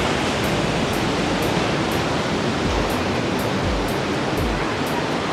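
A steady rushing noise over background dance music with a steady beat, its high ticks coming about twice a second and bass pulses showing through midway.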